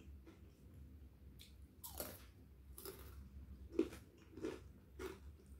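A person chewing crisp fried tempe close to the microphone: about five crunches from about two seconds in, the loudest a little before four seconds.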